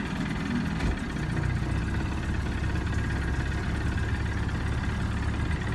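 Boat motor running at low, idling speed: a steady low drone that fills out a little about a second in.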